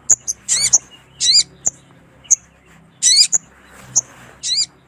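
Spiderhunter (sogon) calling: short sharp high chips mixed with four longer wavering notes that rise and fall in pitch, repeated at irregular intervals, over a faint low hum.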